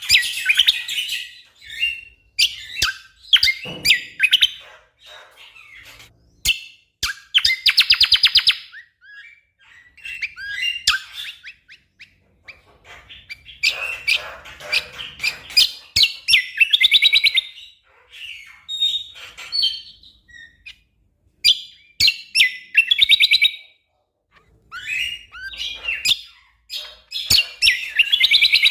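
Cucak kombo (kecial kombok) songbird singing in dense bursts: rapid chirps and fast rattling trills, with sharp clicks between phrases and short pauses.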